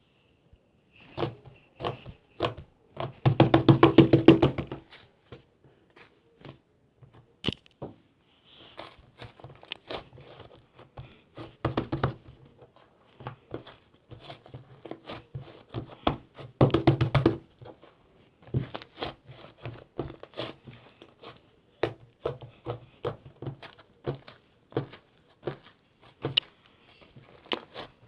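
Clay-mixed slime being squished and poked by hand: a run of small clicks and pops, with two longer, louder stretches of dense crackling about three to four seconds in and again around seventeen seconds.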